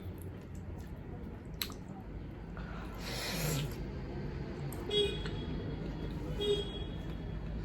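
Two short pitched beeps, about a second and a half apart, over a steady low rumble, with a brief hissing rush about three seconds in.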